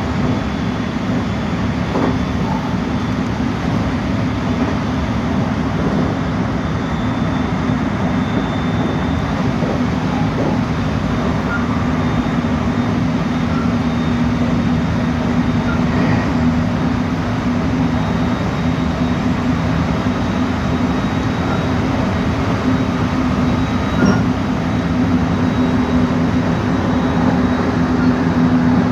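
Electric commuter train running on the rails, a steady loud rumble with a low hum and a few single clicks from the wheels.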